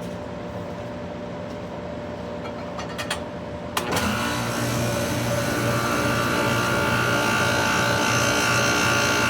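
Goodman AC condenser humming, then a few clicks, and just before four seconds in a sharp click as the compressor kicks on with a newly fitted hard start kit and keeps running, louder, with a strong hum and a high whine. The compressor draws high amps once running, which the technician takes for a failed compressor.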